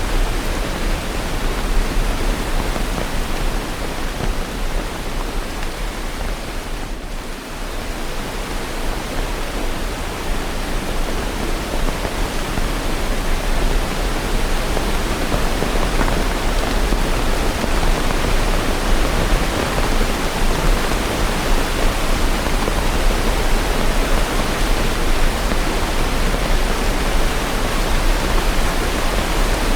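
Steady rain, a dense even hiss with no distinct drops or thunder, dipping slightly in level about seven seconds in.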